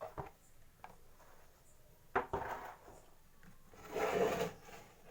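Handling noises: a short knock at the start, then two scraping rubs, a brief one about two seconds in and a longer, louder one about four seconds in.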